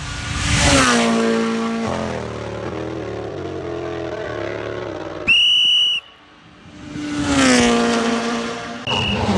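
Rally cars passing at speed, twice, each engine note dropping in pitch as the car goes by. Between the passes a whistle is blown loudly for under a second, with a short second blast near the end.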